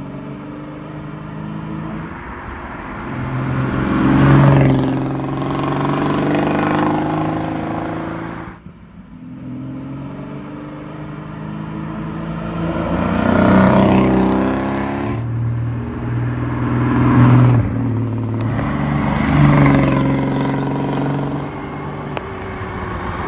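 Triumph TR6's straight-six engine driving and accelerating, its revs rising and dropping back several times, with a brief dip in level about a third of the way in.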